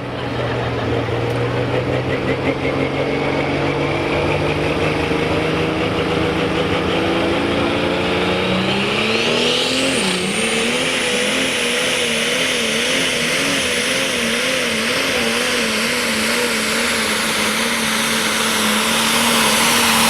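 Super stock pulling tractor's turbocharged diesel engine under full load during a pull. Its note climbs steadily for the first half, then about nine seconds in the throttle is pushed down and a high turbo whine rises sharply. The engine then holds at high revs with a wavering pitch.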